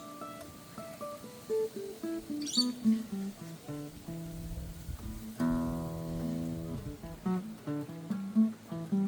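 Steel-string acoustic guitar played solo, single notes picked up and down a scale pattern. About halfway through a strummed chord rings out, then the single-note run resumes.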